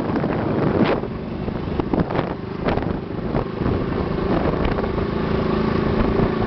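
Motorcycle engine running while riding, with wind buffeting the microphone and a few short knocks. A steady engine hum comes through more clearly in the second half.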